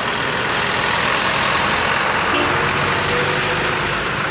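Steady road traffic noise: a continuous wash of vehicles and tyres, with trucks among them.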